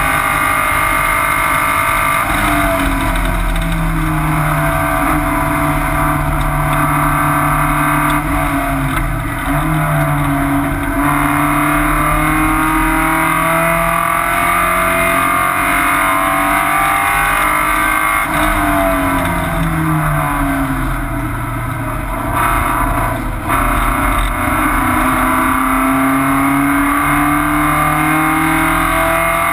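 Porsche 944 race car's four-cylinder engine at racing speed, heard from inside the stripped cockpit with road and wind noise. The revs climb under throttle, fall away about nine seconds in and again around eighteen to twenty seconds, then climb again toward the end.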